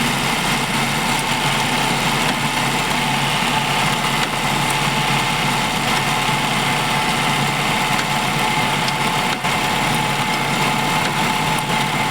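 Maruti Eeco's petrol engine idling steadily with the AC compressor engaged. The alternator belt has just been tensioned, so it runs without squealing.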